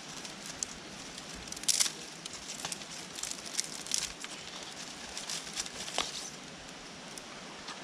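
Irregular crackling and rustling of dry kindling and firewood as a small wood fire is being lit and is slow to catch, over a steady hiss. The sharpest crackles come just under two seconds in, then around four and six seconds.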